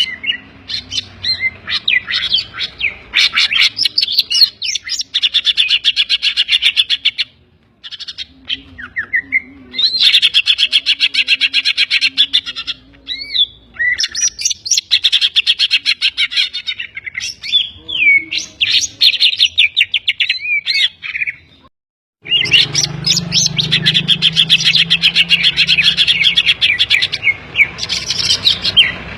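Green leafbird (cucak ijo) singing loudly in fast runs of high chirps, trills and whistled slurs, its song packed with mimicked calls of other birds such as the kapas tembak and the kingfisher (tengkek). The song breaks off briefly twice, about a quarter and about three quarters of the way through.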